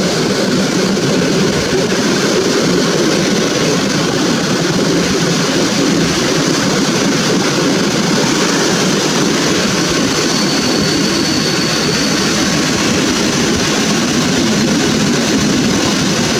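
Passenger coach rolling along the track as the train runs into a station, heard from a coach window: a steady rumble of wheels on rails with a hiss over it. A faint high whine comes in for a couple of seconds about ten seconds in.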